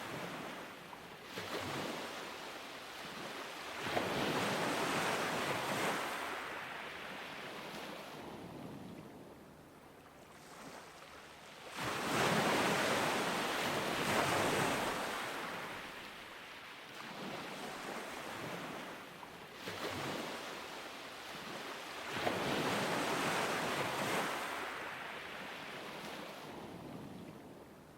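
Ocean surf breaking on a beach and washing back, swelling and ebbing in slow surges, with three larger breakers several seconds apart.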